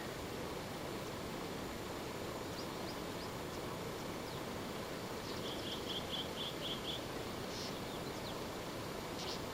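Birds calling over a steady background noise: scattered short chirps, and in the middle a quick run of about seven even, high notes.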